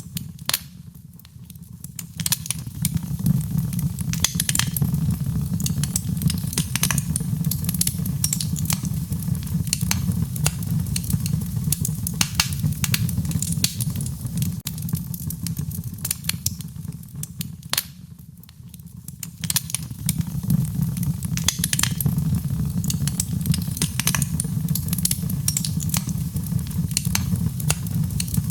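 Wood fire burning: a steady low rumble of flames with frequent sharp crackles and pops from the burning wood. The sound dips briefly about a second in and again around eighteen seconds.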